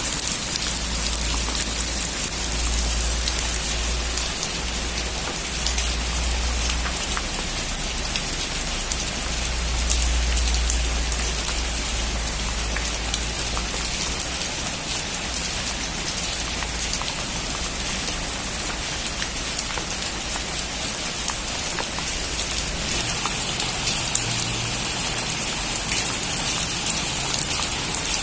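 Heavy rain drumming on a metal roof, a dense steady patter of drops. A deep low rumble sits under it for roughly the first half, and the rain grows harsher and a little louder near the end.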